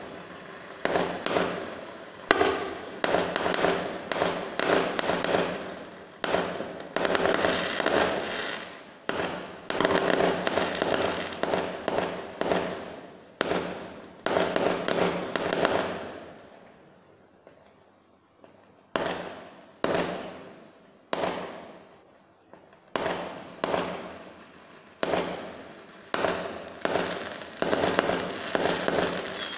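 Fireworks going off in rapid succession, sharp bangs each trailing off. The bangs come thickly, pause for about three seconds just past the middle, then resume at about one a second.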